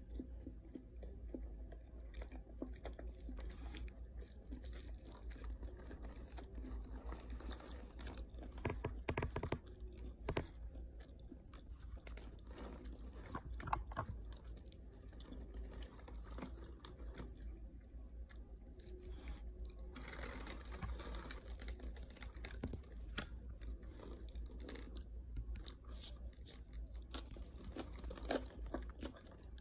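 A person chewing crunchy food close to the microphone: wet mouth clicks and crisp crunches throughout, with louder bursts of crunching about nine and fourteen seconds in and again near the end.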